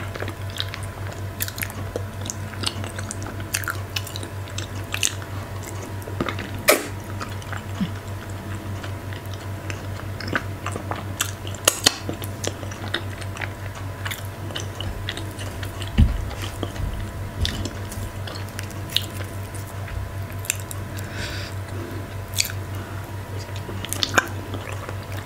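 Close-miked chewing and wet mouth sounds of eating soft fufu dipped in slimy okra stew with goat meat, with scattered sharp lip smacks and clicks and a low thump about two-thirds through. A steady low hum runs underneath.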